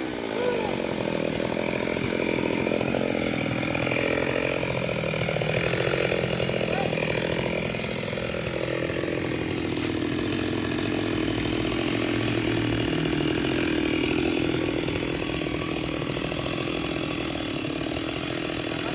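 Stihl MS 382 two-stroke chainsaw running steadily at an even speed.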